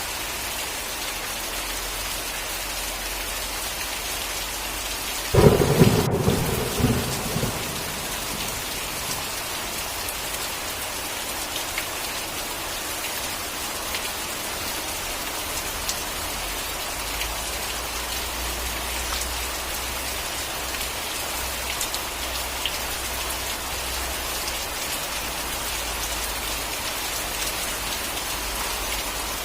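Steady heavy rain falling, with one sudden thunderclap about five seconds in that crackles and fades over a couple of seconds. A faint low rumble of distant thunder runs under the rain later on.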